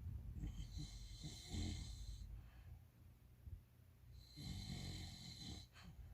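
English bulldog snoring in its sleep: two long snores, the second about four seconds in.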